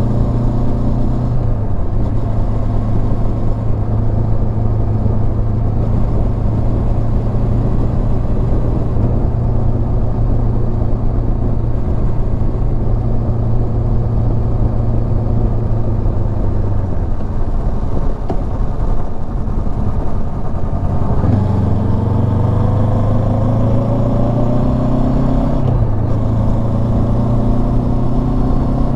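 Honda CB500X's parallel-twin engine running steadily under way, then climbing in pitch as it accelerates about three-quarters of the way through, with a gear change shortly after.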